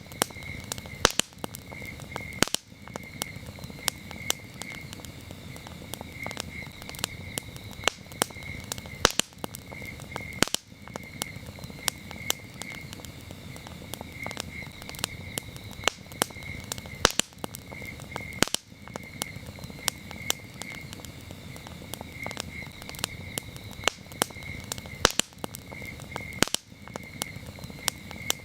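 A wood campfire crackling, with frequent sharp pops and snaps over a low steady hiss. Crickets chirp in a steady, pulsing high-pitched rhythm behind it.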